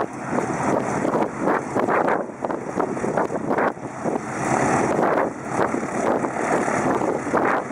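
Vintage piston warbird engine running, heard as a loud, rough, unsteady noise that swells and dips every second or so, with wind on the microphone.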